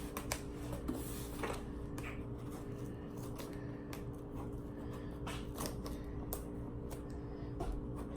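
Hands opening a cardboard box: irregular clicks, scrapes and rustles of cardboard and packing, over a faint steady hum.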